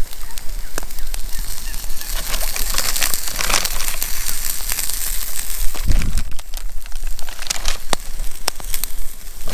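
Plastic packaging of frozen hot dogs crinkling and rustling as it is handled, with many small crackling clicks and a brief low rumble about six seconds in.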